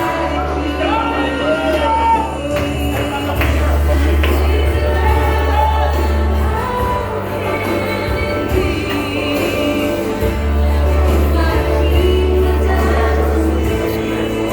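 Gospel worship music with singing over held bass notes.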